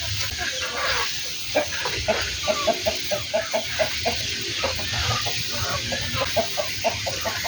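Village chickens clucking in quick runs of short calls, about three or four a second, over a steady hiss from a sprayer tank wetting the manure mix.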